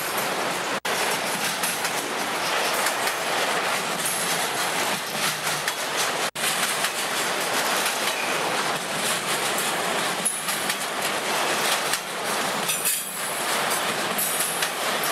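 Freight train of autorack cars rolling past at close range: steady noise of steel wheels on rail with irregular clicks. The sound drops out very briefly twice.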